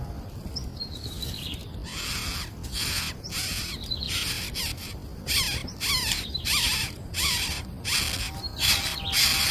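Nestling birds begging with harsh, rasping calls repeated about twice a second, starting around two seconds in, some calls sliding quickly down in pitch.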